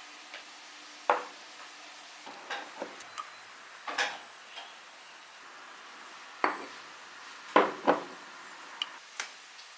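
Dishes and cutlery clinking and knocking as they are handled and set down, in about eight separate sharp knocks with short rings, the loudest pair a little before the end.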